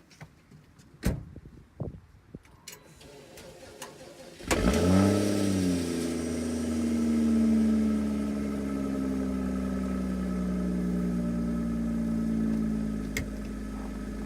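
A few clicks, then about four and a half seconds in the BMW X5 35i's 3.0-litre turbocharged straight-six cranks briefly and fires in a true cold start at −17 °F. It flares up and settles into a fast cold idle that slowly drops in pitch, stepping down again near the end.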